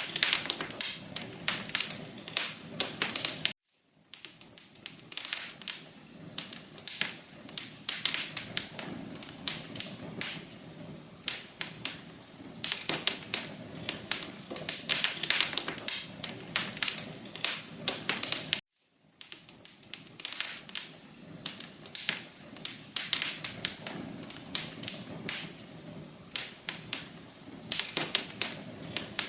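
Wood fire in a fireplace crackling: a dense, irregular run of sharp pops and snaps over a low steady hiss. The sound cuts out completely for a fraction of a second twice, about 4 and 19 seconds in.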